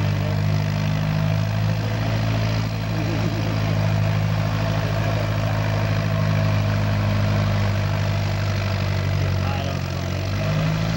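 Antique farm tractor engine running at a steady speed, its note dipping briefly near the end.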